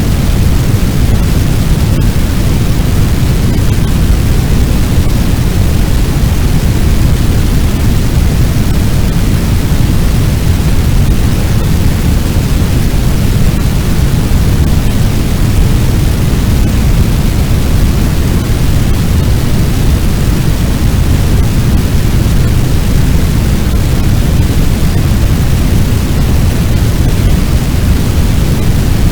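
Fire sound effect: a large blaze imitated as a loud, steady rush of noise, deep and rumbling, with no crackles or changes.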